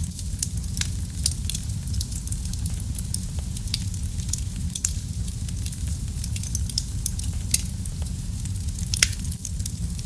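Wood fire burning in a fireplace: a steady low rumble of flame with frequent sharp crackles and pops, one of the loudest about nine seconds in.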